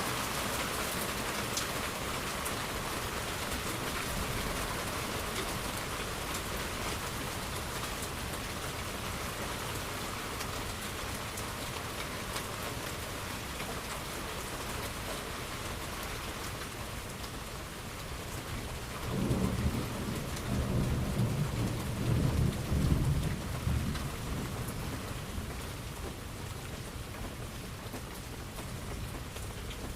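Steady heavy rain falling, with a roll of thunder rumbling in about two-thirds of the way through. The thunder is the loudest part and lasts several seconds before fading back under the rain.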